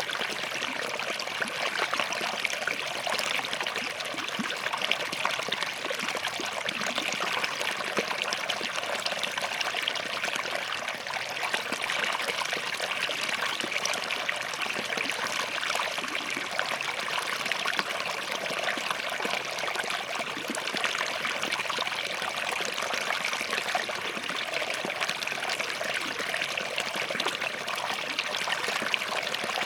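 Small forest stream running over and between rocks, a steady trickling and babbling flow with no let-up.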